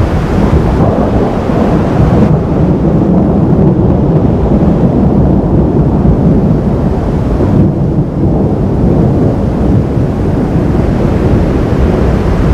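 Thunder rumbling, loud and continuous, a low rolling rumble with no sharp cracks.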